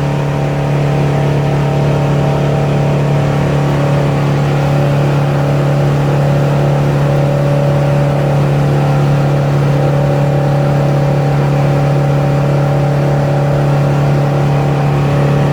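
A 25-foot cabin cruiser's engine running steadily under way, a constant low drone with a stack of overtones and no change in speed.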